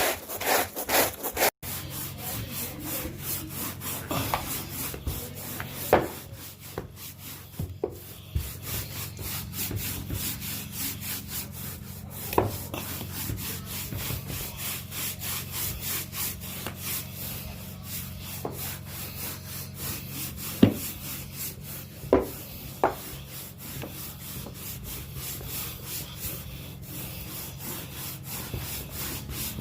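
A stiff-bristled hand brush scrubbing stair carpet in quick back-and-forth strokes, with a few sharper knocks against the stairs.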